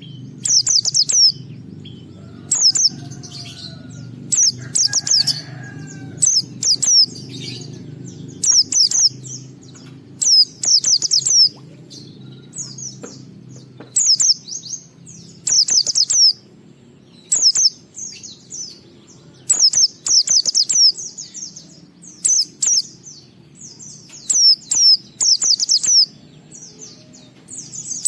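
White-eye (pleci) singing a fast, high twittering song in short bursts about once a second, over a low steady hum. This is the continuous 'ngalas' song that keepers play to get other white-eyes singing.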